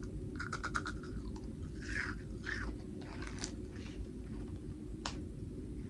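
A mouth biting and chewing a fragile crystal candy: a quick run of crisp crackles in the first second, then softer chewing, with one sharp click about five seconds in.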